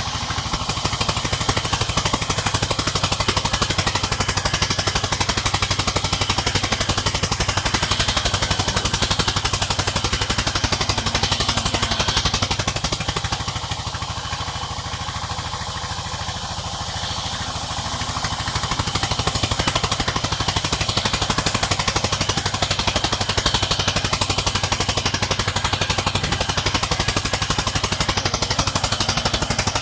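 Village sawmill machinery running steadily, a loud drone with a rapid even pulsing. The level drops for a few seconds about halfway through, then rises again.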